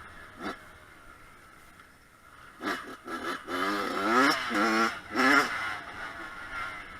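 Kawasaki KX100 two-stroke engine revving in a run of short bursts, its pitch climbing on each, after a quieter stretch at low throttle.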